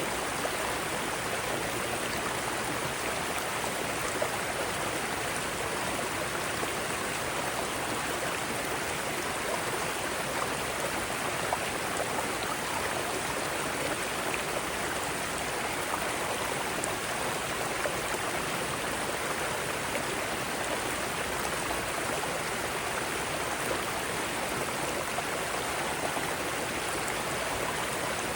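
Mountain stream water rushing over rocks in rapids, a steady unbroken rush of white noise.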